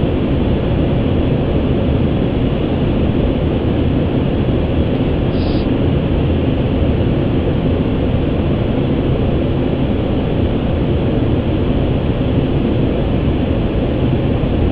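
Steady rushing noise on the flight deck of an Airbus A350 on final approach: airflow and engine sound with no change in level. A brief faint high blip comes about five and a half seconds in.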